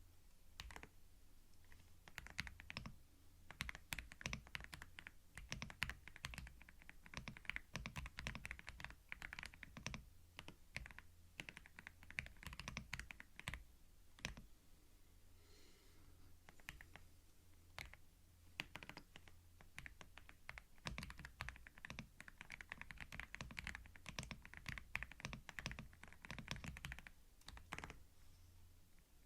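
Typing on a computer keyboard, recorded close on binaural microphones: fast runs of key clicks. The clicks thin out for a few seconds around the middle, pick up again, then stop shortly before the end.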